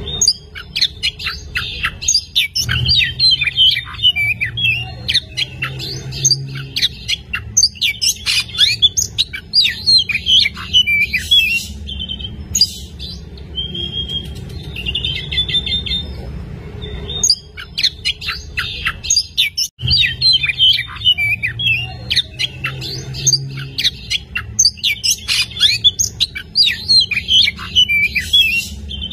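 Oriental magpie-robin singing continuously: fast, varied phrases of sharp chirps and whistles, with only short pauses, over a steady low hum.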